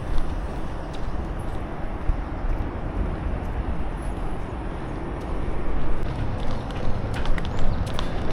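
Outdoor street ambience: a steady low rumble with scattered light clicks and ticks, slightly louder in the last couple of seconds.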